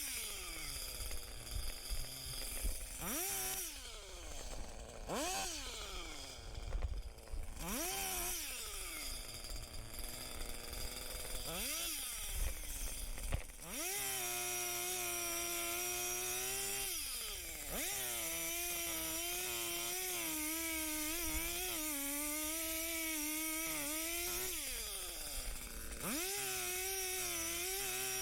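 Chainsaw revved in short blips several times, then held at full throttle for several seconds at a time, its pitch wavering and sagging under load as it cuts through wood.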